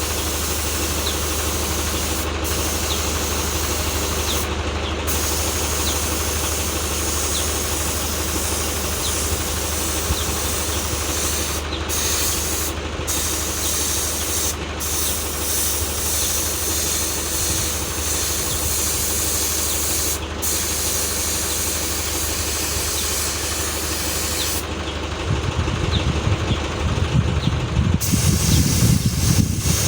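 Walking tractor engine running steadily, a constant low hum under an even hiss. About 25 seconds in, an irregular low rumble joins it and the sound grows a little louder.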